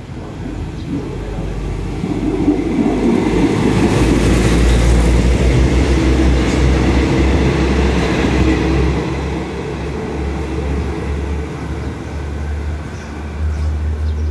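Diesel-hauled passenger train pulling through the station: the locomotive's engine and the rumble of the wheels grow louder over the first few seconds and are loudest about four seconds in, as the locomotive draws level. The coaches then keep rolling past with a steady low rumble that eases off somewhat toward the end.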